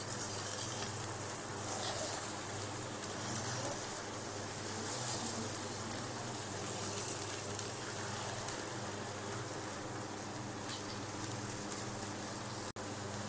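Liver cubes and fried onions sizzling steadily in oil in a non-stick wok, stirred now and then with a spatula.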